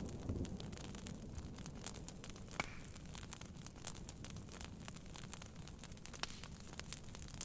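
Wood fire crackling with scattered irregular pops and one louder pop about two and a half seconds in, over a faint low hiss. The last of a thunder rumble dies away at the very start.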